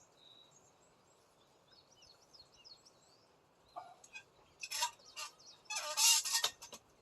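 Small birds chirping faintly, then from about four seconds in a run of loud, harsh, scratchy bursts, the loudest near the end.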